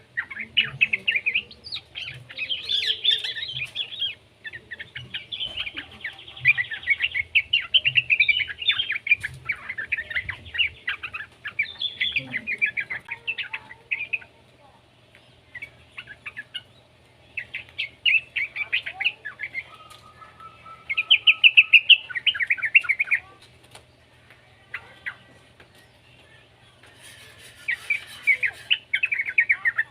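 Young sooty-headed bulbul (trucukan) calling in bursts of rapid, chattering chirps, with two short lulls.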